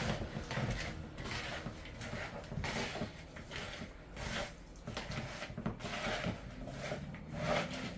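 Hands rubbing seasoning into raw chicken pieces: an irregular run of soft, wet rubbing and squishing strokes.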